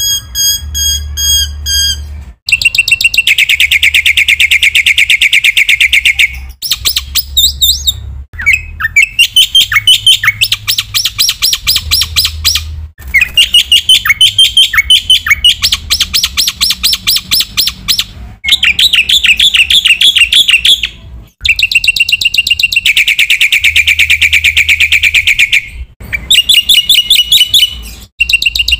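Black-winged myna (jalak putih) singing loudly and continuously: long runs of rapid, repeated chattering notes and trills, broken by a few short pauses.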